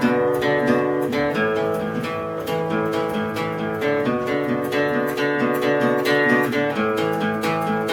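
Acoustic guitar strummed in a steady rhythm, playing chords without singing.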